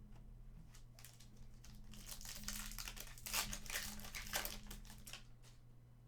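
A hockey card pack's wrapper being torn open and crinkled by hand, a crackling rustle that builds for a few seconds and then dies away.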